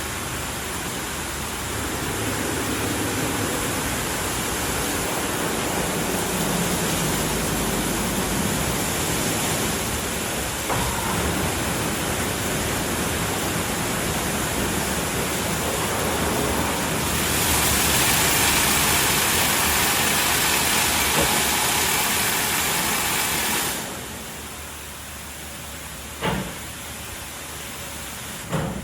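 WashTec SoftCare Pro Classic rollover car wash running: a steady noise of spraying water and machinery. Past the middle it grows louder and hissier for about six seconds, then drops away abruptly. Two short knocks follow near the end.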